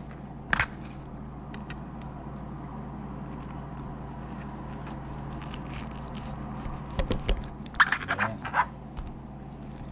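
A knife and cutting board while chicken breast is sliced into thin cutlets: one sharp click about half a second in, then a cluster of knocks and taps near the end, over a steady low hum.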